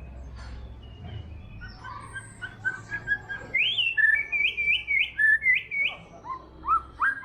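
White-rumped shama singing: faint chatter at first, then loud, clear whistled phrases of upward-sweeping notes from about halfway in, closing with a quick run of rising notes near the end.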